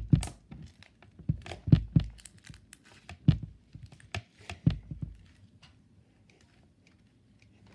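Slime being squeezed and poked by hand, giving an irregular run of sticky clicks and pops that dies away about two-thirds of the way in.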